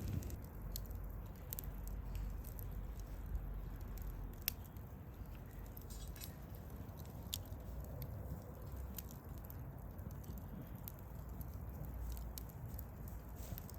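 Wood campfire burning: a steady low rumble of flames with sparse sharp crackles and pops a few seconds apart, the loudest pop about four and a half seconds in.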